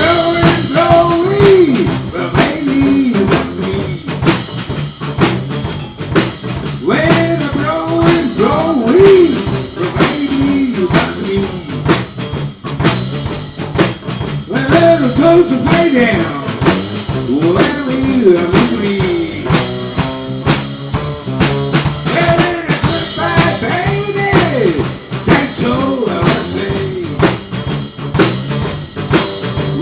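A small band playing live: a drum kit and bass keep a steady beat under a lead melody whose notes bend up and down in pitch.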